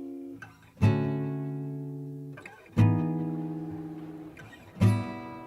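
Background music: an acoustic guitar strumming one chord about every two seconds, each left to ring out and fade before the next.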